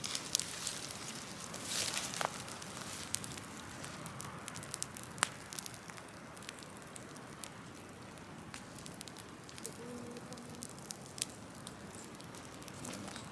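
Large open wood-and-brush fire crackling, with sharp pops and snaps scattered throughout and a louder snap about five seconds in.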